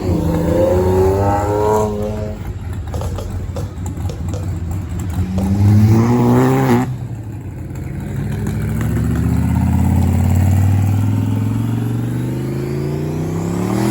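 Car engines revving hard at a street takeover. The pitch climbs at the start, climbs sharply again and cuts off suddenly about seven seconds in, then climbs slowly and steadily for the rest of the stretch as a car pulls away.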